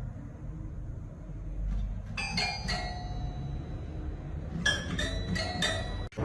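Two clusters of light, sharp clinks with a short bell-like ring, over a low steady rumble. The first cluster comes about two seconds in and the second about five seconds in.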